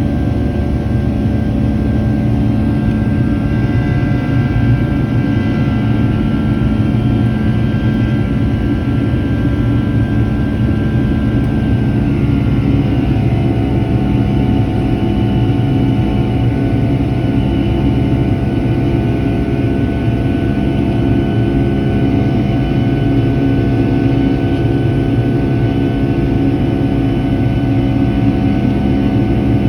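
Boeing 757 jet engines droning steadily, heard from inside the passenger cabin, with a deep rumble and several steady whining tones. About twelve seconds in, the engine tones shift to a new set of pitches while the overall loudness stays the same.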